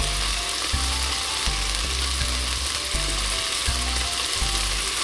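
Miso-marinated beef steak and chunks of white Japanese leek sizzling steadily in a frying pan, over background music with a regular low beat.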